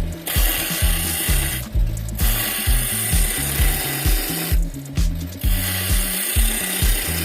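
A tool working wood in long continuous passes, breaking off briefly twice, over background music with a bass beat.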